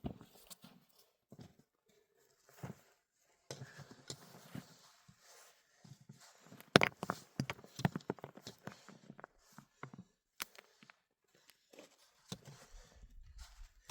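Irregular knocks, clicks and crunches of someone moving about and handling things, with short quiet gaps; the sharpest knock comes a little before halfway.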